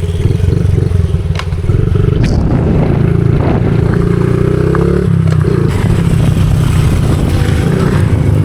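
Small single-cylinder four-stroke pit bike engine running. Its revs climb from about two and a half seconds in and fall back about five seconds in, with a few sharp clicks and rattles along the way.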